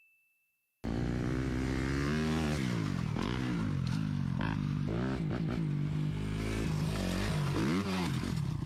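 Dirt bike engine revving up and down as it is ridden, the pitch rising and falling over and over, with a hiss of wind noise. It starts suddenly about a second in, after a moment of silence.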